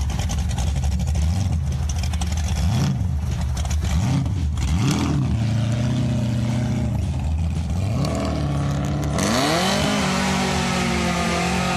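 Pontiac Firebird engine pulling hard under acceleration, its pitch climbing and dropping back several times as it shifts up through the gears.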